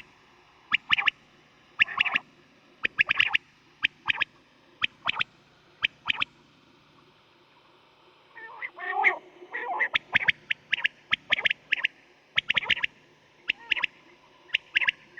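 Quail calling: short, sharp notes repeated in quick clusters, with a pause of about two seconds in the middle followed by a denser run of calls.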